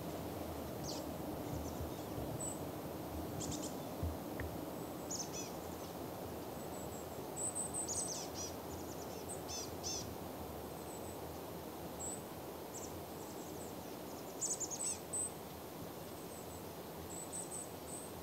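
Small birds giving high, thin chirps and short falling calls, scattered irregularly, over a steady low background hiss of outdoor noise.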